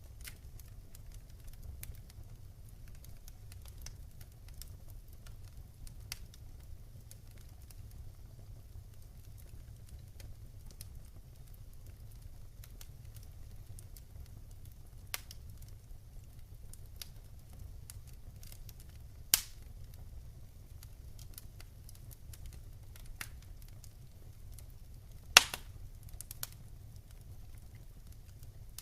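Wood fire crackling in a fireplace: scattered small snaps over a steady low rumble, with two loud pops, one about two-thirds of the way through and one near the end.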